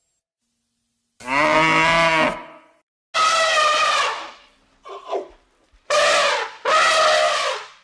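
Cattle mooing: a low moo starts about a second in, followed by three shorter, higher-pitched calls.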